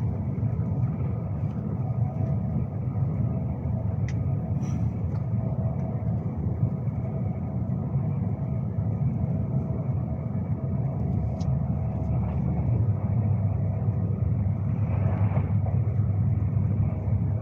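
Steady low rumble of a Class 390 Pendolino electric train running at speed, heard from inside the carriage, with faint steady tones over it. A brief swell of noise comes about fifteen seconds in.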